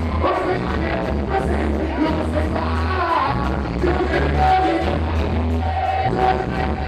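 Live reggae band playing with a heavy, steady bass line, a voice singing over it at times.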